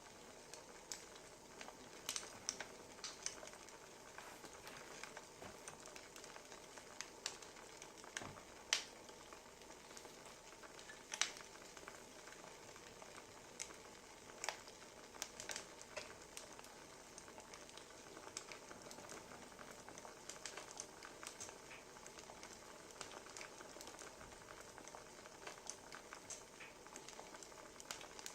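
Wood fire crackling: a soft steady hiss broken by irregular sharp pops and snaps, a few of them much louder than the rest.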